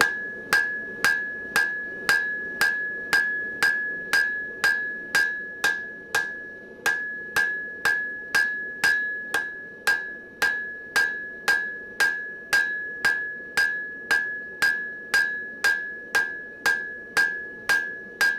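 Blacksmith's hammer striking hot mild steel on an anvil in a steady rhythm of about two blows a second, each blow followed by a bright anvil ring. The steel is being spread and drawn at the transition to the shovel face.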